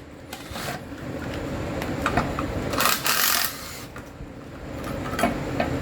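Hand tools and metal exhaust parts scraping and clinking while the catalytic converter's heat shield is being worked off, with a longer scrape about three seconds in.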